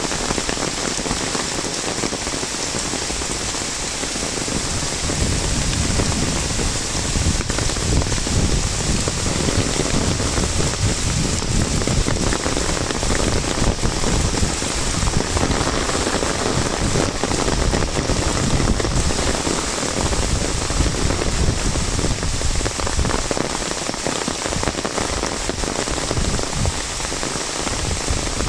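Heavy monsoon rain drumming on an umbrella overhead, over a steady hiss of rain falling all around. The low patter on the umbrella grows heavier about five seconds in and eases again near the end.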